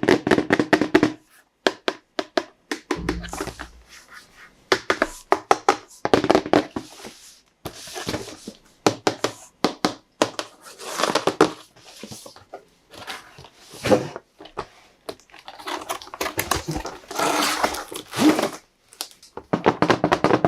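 Hot Wheels toy monster trucks being handled and knocked about: an irregular run of plastic clicks, knocks, rattles and scraping.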